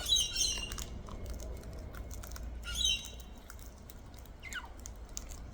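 Wild cockatoos calling: two short high-pitched calls, one at the start and one about three seconds in, with light clicking from their beaks nibbling food in between.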